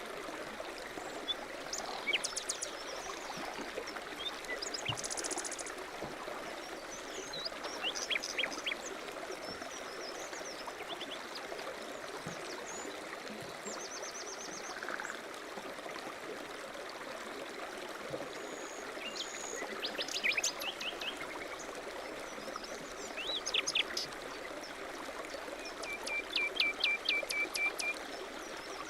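A mountain stream running steadily, with several songbirds chirping and trilling over it; one bird gives a quick run of repeated notes near the end.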